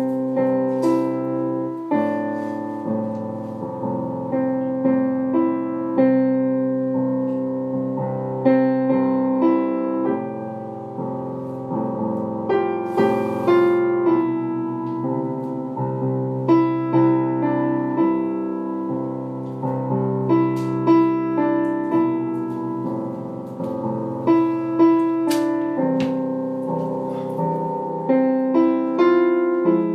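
Background piano music: a steady sequence of played notes and chords.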